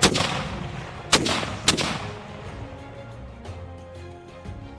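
Sound-effect cannon fire from a ship battle: three blasts in the first two seconds, each trailing off in a fading rumble, over faint background music.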